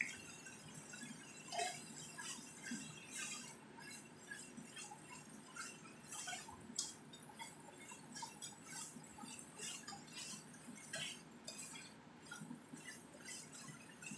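Shredded chicken sizzling and crackling in a nonstick frying pan, with many small irregular pops and ticks. At times a slotted spatula stirs it, scraping and tapping against the pan.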